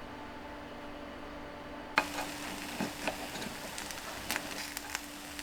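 Appe batter sizzling in a hot appe pan, the sizzle growing louder from a sharp click about two seconds in, with a few more clicks after.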